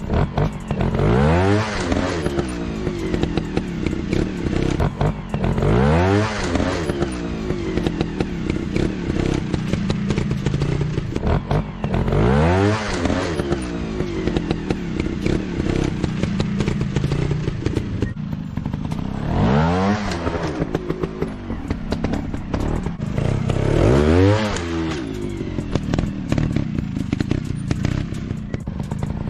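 Motorcycle engine revving up and falling back again and again, a rising-and-falling rev about every five to seven seconds over a steady running drone.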